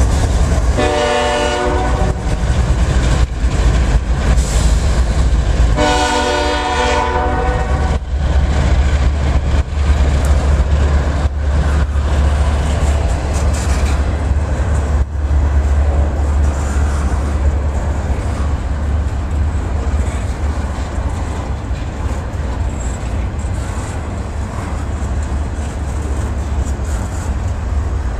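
CSX freight train passing close by: its locomotive horn sounds a short blast just after the start and a longer one about six seconds in, over the low rumble of the diesel locomotives. After that the double-stack intermodal container cars roll past with a steady rumble and wheel clatter, with occasional sharp clicks over the rail joints.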